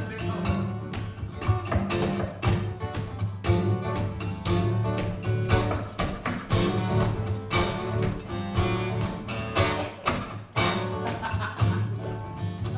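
Live acoustic guitar music, strummed steadily.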